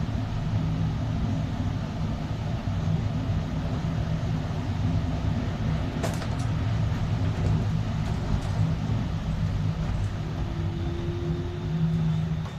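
City bus running, heard from inside: a steady low rumble of motor and road, with a single click about six seconds in and a whine that rises slowly in pitch near the end.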